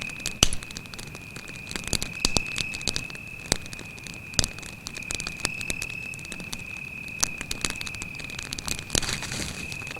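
Campfire crackling, with sharp irregular pops, the loudest about half a second in. A cricket trills steadily underneath in one high, unbroken tone.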